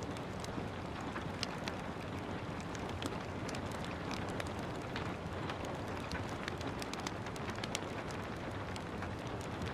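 Steady rain falling, with a wood fire crackling over it in frequent, irregular small pops and snaps.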